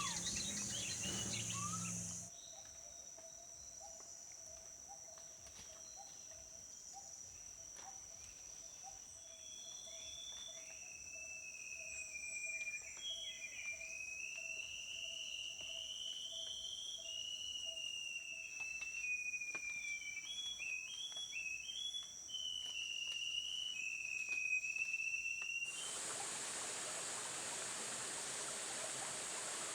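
Black shama singing a long, wavering, continuous warbled song over a steady high-pitched insect drone. It opens with a couple of seconds of Mindoro hornbill calls, and near the end it cuts to the rush of running water.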